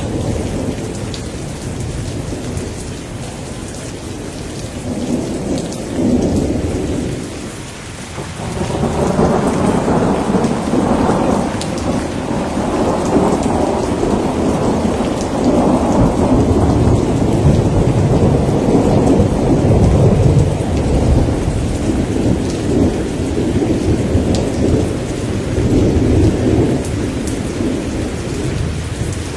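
Thunderstorm: steady rain with thunder rumbling, one roll swelling and dying away about six seconds in, then a longer, louder roll building from about eight seconds in and rolling on through the rest.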